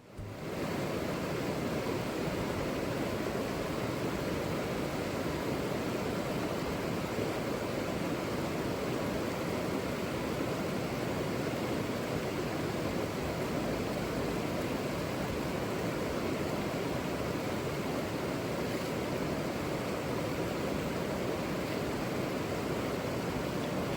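River water rushing, a steady even sound of moving water that holds constant.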